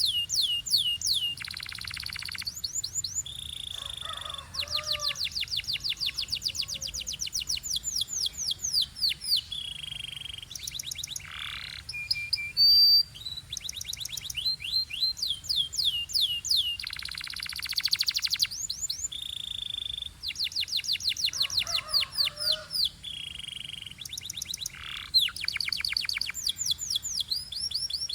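Belgian canary singing a continuous song of fast trills, rapidly repeated high notes that switch to a new rhythm and pitch every second or two, with a few brief lower warbling phrases.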